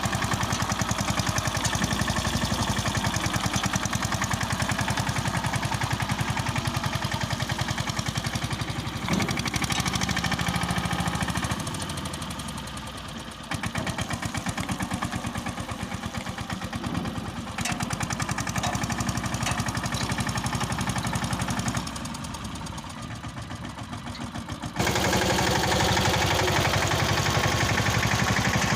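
Mahindra Yuvraj 215 tractor's single-cylinder diesel engine running with a rapid, even thudding beat. Its loudness drops twice, then comes back up suddenly near the end.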